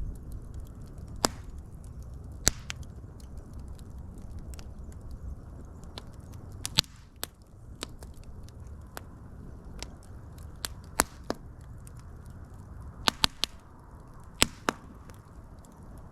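Wood fire crackling: irregular sharp pops and snaps over a low, steady rumble of burning, with a few louder pops bunched together near the end.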